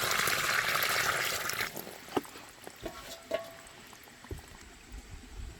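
Water running or being poured, which stops abruptly under two seconds in, followed by a few light clicks and knocks.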